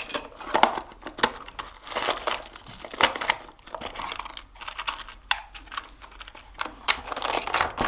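Irregular clicks, taps and plastic crinkling as hands work through a motorbike's wiring loom and its plastic wrapping.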